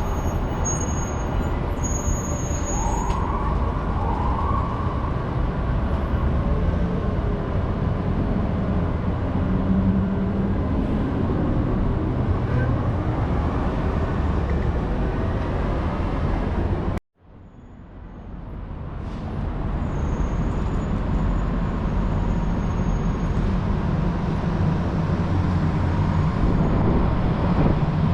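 Downtown city street traffic noise: a steady rumble of passing cars and other vehicles. About two-thirds of the way through, the sound cuts out abruptly, then fades back in over a few seconds.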